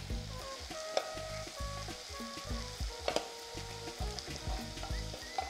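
Sliced onions sizzling in a pressure cooker as spice powders are spooned in, with a couple of sharp metal clinks from the spoon and ladle against the pot.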